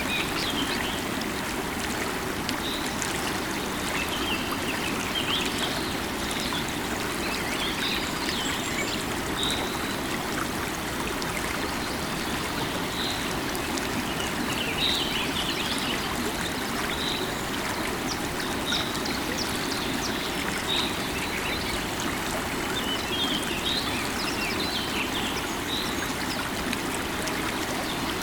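River water running steadily, with small birds chirping in short high calls now and then over it.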